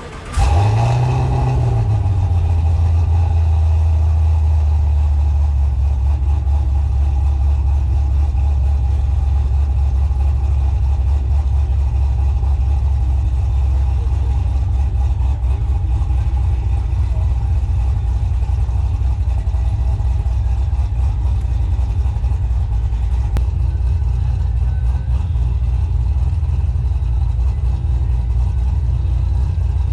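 Car engine starting up, flaring briefly in revs as it catches, then settling into a steady, loud, low idle.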